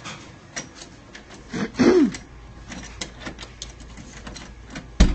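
A brief falling vocal sound about two seconds in, over scattered light clicks and handling noise, with a sharp thump near the end.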